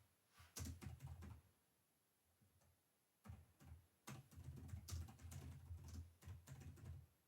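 Quiet typing on a computer keyboard in two runs of keystrokes: a short run about half a second in and a longer, steady run from about three seconds in.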